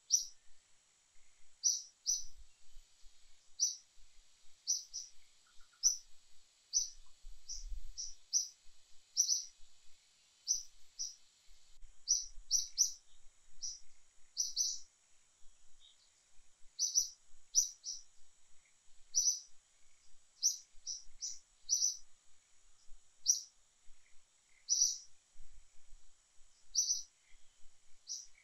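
A bird chirping: short, high chirps repeated irregularly, about one or two a second, over a faint steady high hiss.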